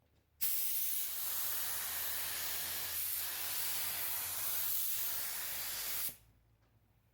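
Paint spray gun spraying 2K clear coat: a steady hiss of air and atomised clear that starts abruptly about half a second in and cuts off about a second before the end.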